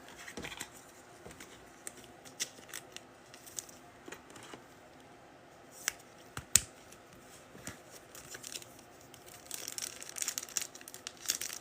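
Trading cards being handled: scattered soft clicks and slides of card stock, then a stretch of crinkling near the end as a foil card pack is worked open.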